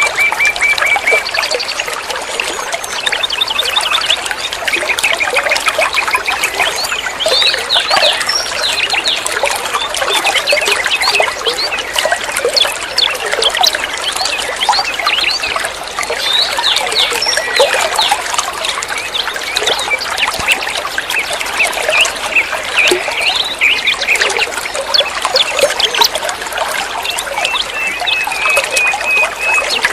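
Water trickling and splashing steadily under a busy chorus of chirping songbirds, with rapid trills at the start and again near the end.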